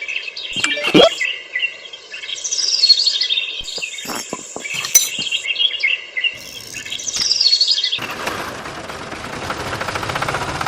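Birds chirping and calling in quick, repeated tweets and short whistles. About eight seconds in this gives way suddenly to a steady, noisy rush.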